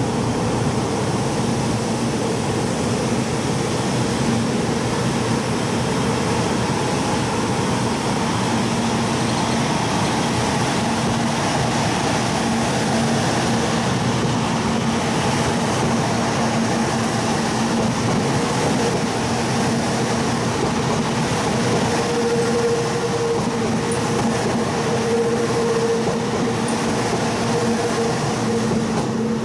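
Kyushu Shinkansen 800 series train rolling slowly past: a steady hum with two held tones over running noise, the higher tone growing stronger over the last several seconds.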